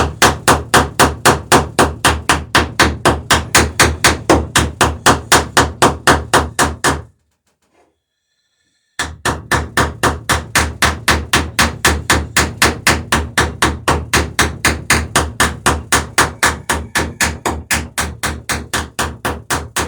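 A hammer peening boat rivets over their burrs while fastening a wooden dory's planks, with rapid even blows at about four a second. The blows stop for about two seconds near the middle, then carry on at the same pace.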